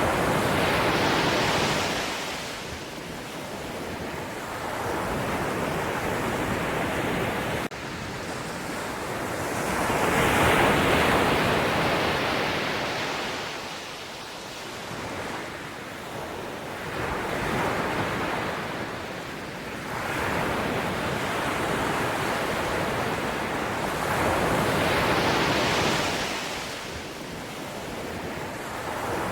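Ocean waves breaking and washing up the shore. The surf swells and falls back every few seconds over a steady rush of water.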